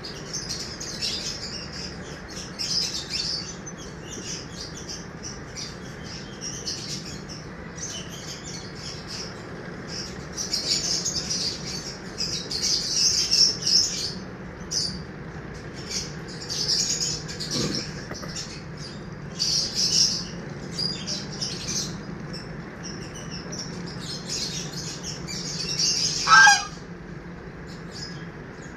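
Birds chirping in quick high-pitched notes, in bursts that keep going, with one louder call near the end that sweeps steeply down in pitch.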